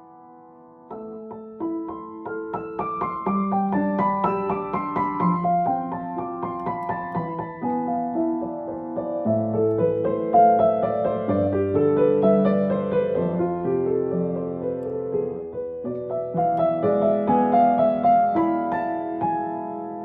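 Solo piano playing a minor-key piece, low bass notes under a moving melody, quiet for the first second and then full.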